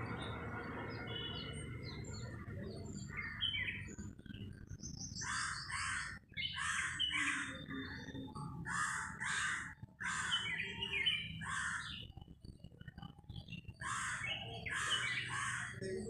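Birds calling: rough, harsh calls in quick runs of two to four, with a few thin high chirps before the calls begin. A low, steady rumble runs underneath.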